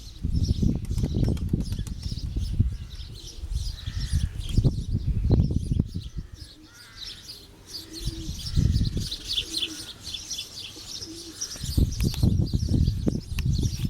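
Domestic pigeons cooing and flapping their wings, with gusts of wind buffeting the microphone in repeated low surges; small birds chirp high above throughout.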